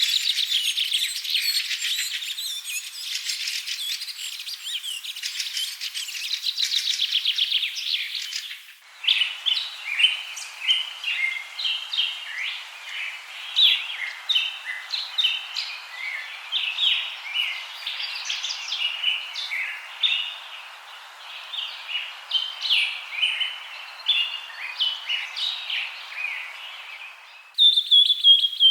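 Birds chirping and singing in quick, dense calls. The recording changes abruptly twice, about a third of the way in and again near the end, as separate birdsong clips are cut together.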